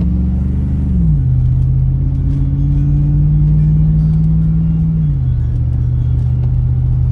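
Car engine pulling away under acceleration, its pitch dropping as the automatic transmission upshifts about a second in and again after about five seconds, then running steadily at cruising speed.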